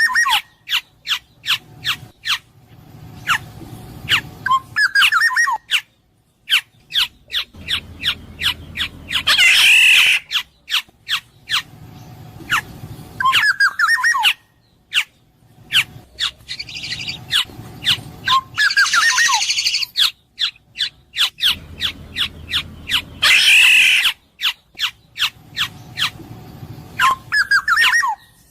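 Black-naped oriole calling: trains of sharp clicking notes, whistles sliding down in pitch, and harsh, scratchy squawks. The same sequence repeats about every 14 seconds.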